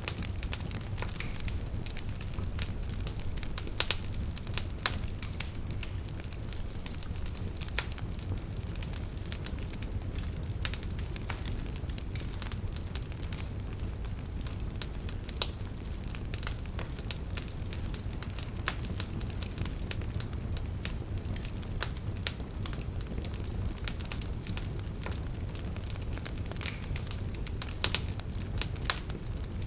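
Wood fire burning in a fireplace: a steady low rumble of flame with irregular sharp crackles and pops, a few louder snaps among them.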